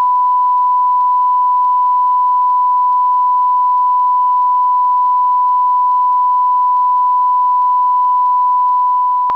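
A loud, steady electronic beep at a single pitch, held unbroken like a sine test tone, over a faint hiss.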